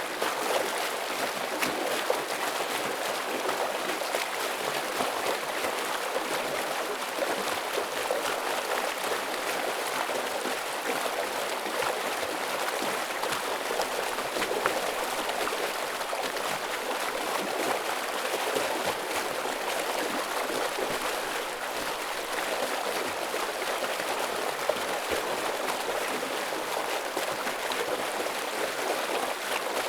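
Heavy flow of a stream: a steady, unbroken rush of water.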